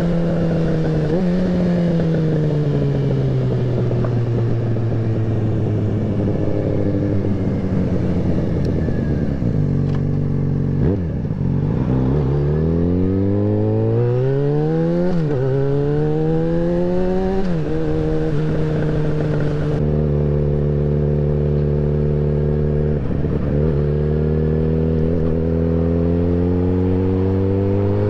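Yamaha XJ6N's 600 cc inline-four motorcycle engine under way: the revs sag about ten seconds in, then climb through two quick upshifts, hold steady for several seconds, and rise again near the end.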